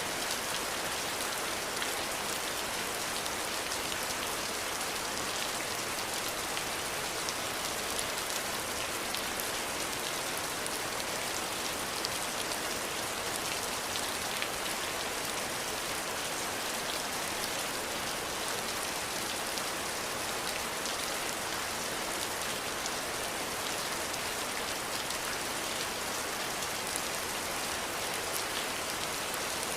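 Steady rain falling and pattering on surfaces, an even hiss of many drops with scattered faint individual drip ticks.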